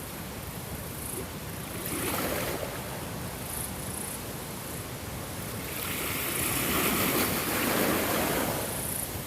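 Ocean waves washing in, in two swells: a small one about two seconds in and a bigger, longer one from about six to eight and a half seconds in.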